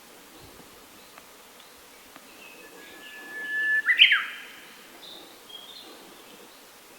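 A bird singing one phrase: a long held whistle that swells in loudness, then a quick loud flourish about four seconds in. Fainter short chirps from other birds come before and after it.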